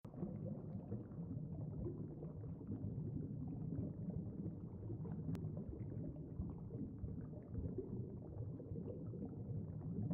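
Underwater bubbling and low rumbling water, steady throughout.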